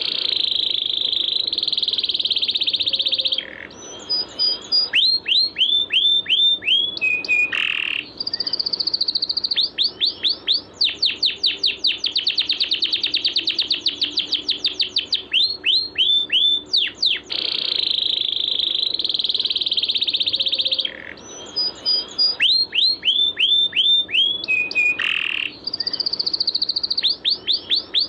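Songbird masteran recording: a buzzy, insect-like trill alternating with rapid runs of sharp down-slurred whistles and a few short high notes. The same phrase sequence comes round again about 17 seconds in, as a looped recording.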